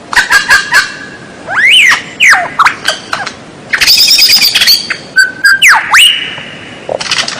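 A songbird singing a loud, varied phrase. It opens with sharp clicks, moves into whistled slurs that rise and fall, has a fast chattering run about four seconds in, and ends on a held whistle.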